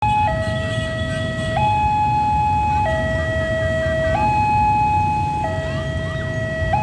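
Railway level-crossing warning alarm sounding a two-tone high–low signal, each tone held about a second and a quarter, warning that a train is approaching. A steady low rumble runs underneath.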